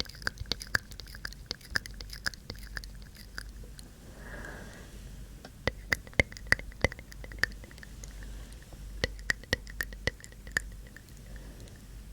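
Close-miked ASMR mouth sounds: a quick run of wet tongue and lip clicks, 'tk tk'. The clicks break off for a soft breath about four seconds in, then resume.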